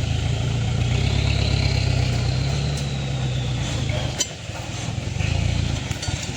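Vehicle engine running steadily with a low throb. It drops away briefly with a sharp click a little past the middle, then picks up again.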